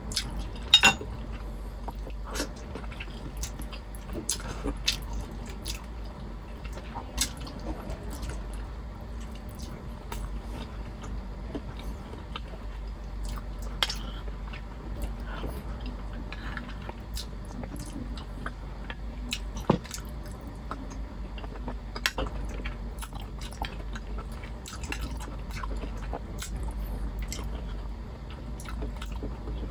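Close-miked wet chewing of saucy beef rib caldereta, with scattered sharp clicks as a metal spoon scrapes and taps a glass baking dish.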